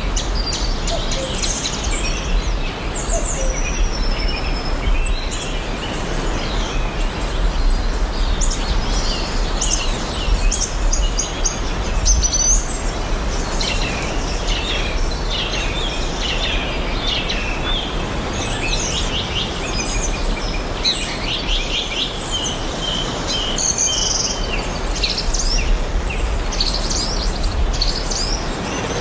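Several songbirds chirping and trilling throughout, with busier runs of rapid notes in the middle and near the end, over a steady background hiss and low rumble.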